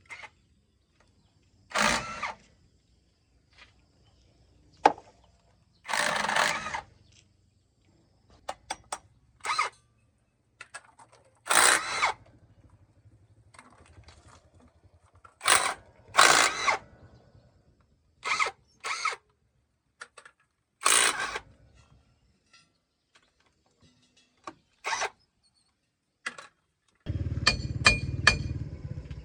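A power tool run in short bursts, each well under a second to about a second long, about a dozen times with pauses between. Near the end a lower, steadier running sound comes in, with a few metallic clinks.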